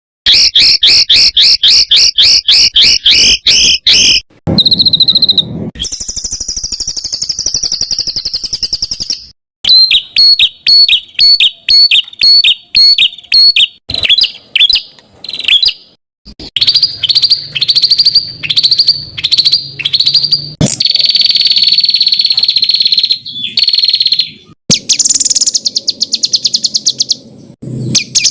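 Songbird song recorded as a 'masteran' tutor track: a fast, varied sequence of high-pitched phrases, with runs of quick repeated notes and a few longer buzzy, insect-like trills. The phrases are cut off abruptly between sections.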